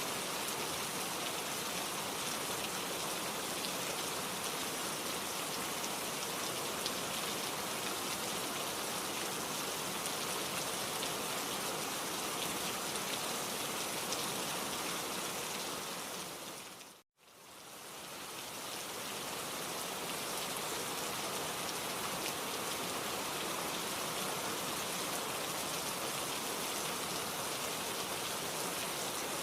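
Steady rain falling on a surface, an even dense hiss with fine drop patter. About two-thirds of the way through it fades out to silence for a moment and fades back in, as at the loop point of a rain recording.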